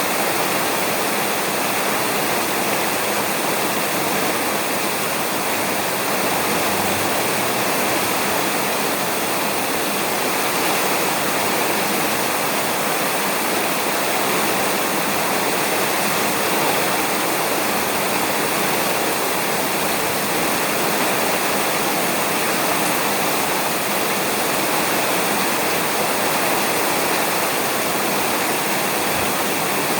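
Heavy rain falling steadily on a roof, a dense even patter with no let-up.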